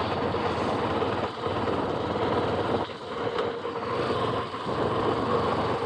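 Motorcycle engine running at a steady cruising speed, with a constant hum and wind and road noise.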